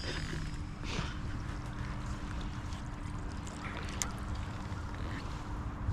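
Boat motor running steadily, with a low rumble and a steady hum; a couple of light knocks about a second and four seconds in.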